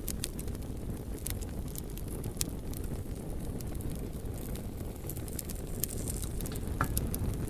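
Wood fire burning: a steady low rumble with scattered sharp crackles and pops from the burning wood, a handful over the span.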